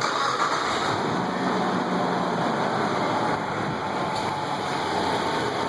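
Nissan Pathfinder's VG33E V6 engine running steadily at idle, just started. It idles smooth, with no misfire or hesitation now that a new distributor and camshaft position sensor are fitted.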